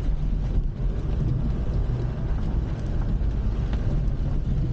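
Car driving slowly over a rough, sandy unpaved track, heard from inside the cabin: a steady low rumble of engine and tyres, with a few faint ticks.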